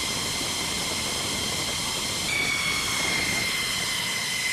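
Jet aircraft engine running: a steady rush with a high whine that steps up in pitch about halfway through and then slowly falls.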